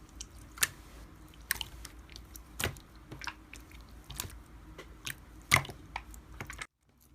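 Slime being squished and poked by hand, giving irregular sticky clicks and small pops; the sound cuts out briefly near the end.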